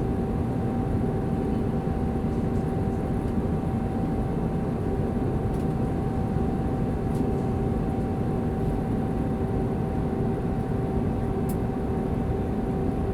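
Airbus A320 cabin noise in flight on approach: the steady rush of airflow and the hum of its IAE V2527 turbofan engines, with a few steady tones held throughout.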